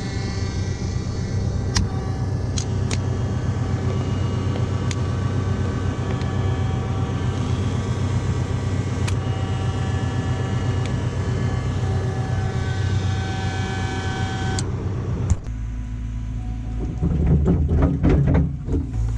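Diesel engine of a Caterpillar earthmoving machine running steadily under load, with high whining tones and a few sharp clicks. About 15 seconds in the sound changes abruptly to a lower rumble with irregular clanking knocks.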